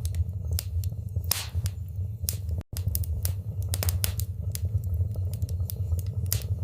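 Wood fire burning in a fireplace: a steady low rumble with frequent, irregular sharp crackles and pops. The sound cuts out for an instant about two and a half seconds in.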